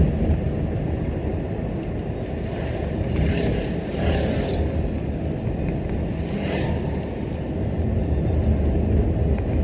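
A car driving, heard from inside the cabin: a steady low road and engine rumble, with two swells of hiss, one about three seconds in and one about six seconds in.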